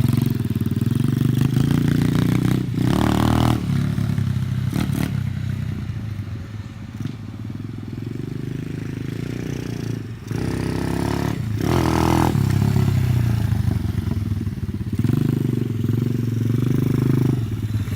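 Small dirt bike engine running, rising and falling in revs, with louder surges a few seconds in and again about two-thirds of the way through.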